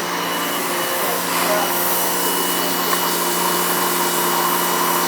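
A power tool's electric motor running steadily: a continuous whirring hiss with a steady hum under it.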